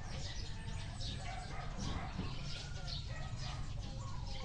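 Birds chirping repeatedly, short high calls about twice a second, over a steady low rumble.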